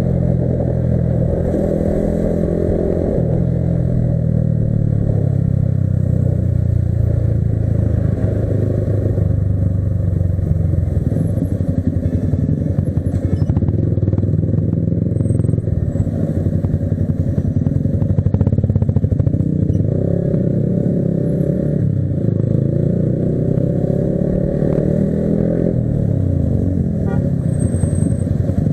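Modified Yamaha R15 V3's single-cylinder engine running steadily, its pitch rising and falling several times with the throttle.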